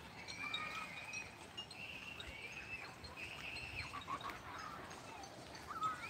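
Birds calling among the trees: several drawn-out high calls that bend and glide in pitch, over a steady outdoor background.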